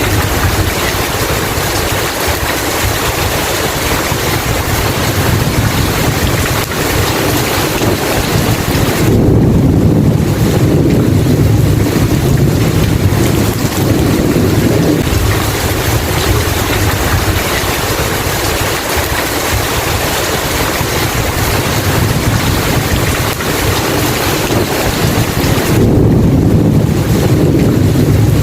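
Steady heavy rain with low rolling thunder, the rumble swelling twice: about a third of the way in and again near the end.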